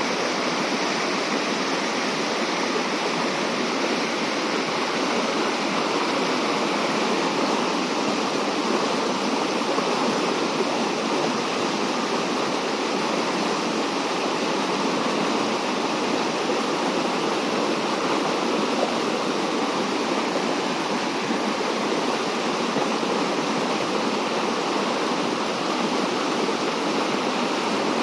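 Waterfall: falling water rushing, steady and unchanging throughout.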